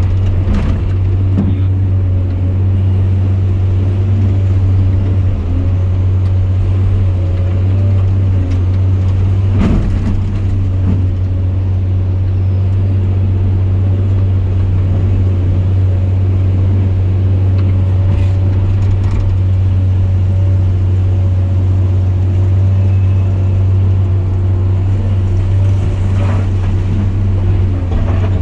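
Engine of a heavy bucket loading machine running steadily under load, a deep constant drone, with a few short knocks scattered through it.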